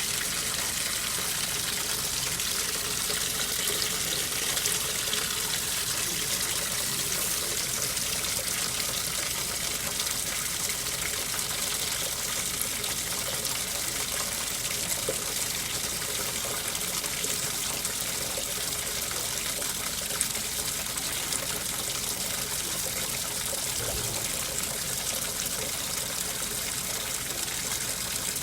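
AQUA coin-operated 5 kg washing machine filling its drum with water, a steady gushing stream from the water inlet.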